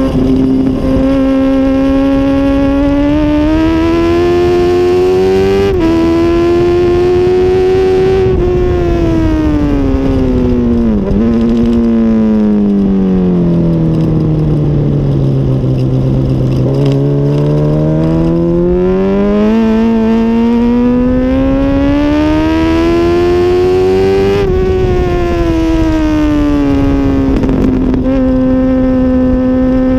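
2006 Honda CBR1000RR inline-four engine at race pace, loud throughout. Its pitch holds steady, climbs with brief sudden dips, falls slowly for about eight seconds as the bike slows, then climbs again until a sharp drop about three-quarters of the way through, and settles steady near the end.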